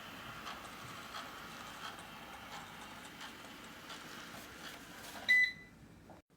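eufy Omni C20 robot vacuum running with a steady mechanical whir and a regular click about every 0.7 s. About five seconds in it gives a short, loud electronic beep, then the running sound fades and cuts off.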